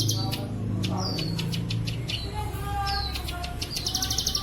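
Ciblek sawah (plain prinia) song from a masteran recording: fast trains of short, high, rapidly repeated notes, some phrases opening with a quick downward slur, over a low steady hum.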